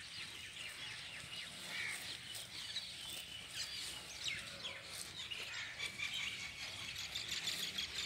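Small birds chirping: many short, high calls overlapping, under a faint low hum.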